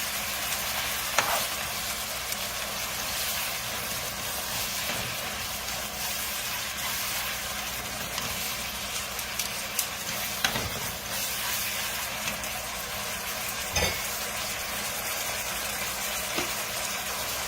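Seasoned minced pork sizzling in a frying pan as it is stirred, with a few sharp clicks of the utensil against the pan.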